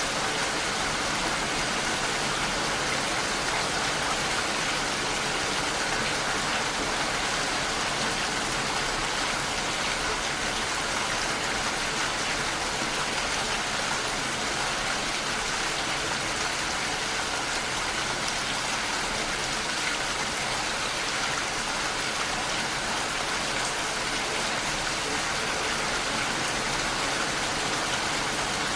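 Steady rain pattering against a window pane, an even hiss with no change.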